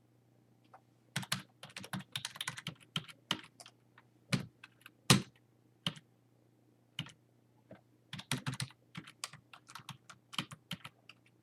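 Typing on a computer keyboard: irregular runs of keystrokes, starting about a second in.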